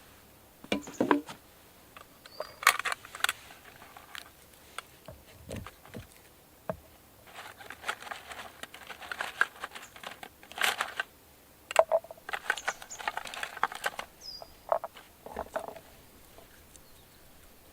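Packaging and camp cooking gear being handled: crinkling and rustling in short bursts, with scattered sharp clicks and light knocks.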